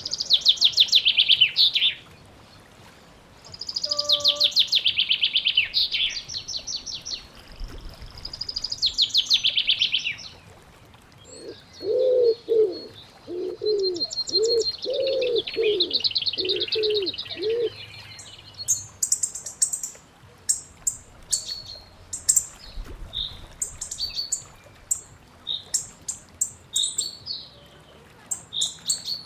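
Wild birds singing. There are three loud, fast trilled song phrases early on. Then a run of about nine low cooing notes sits under a thinner high song, and after that comes a scatter of many short high chirps.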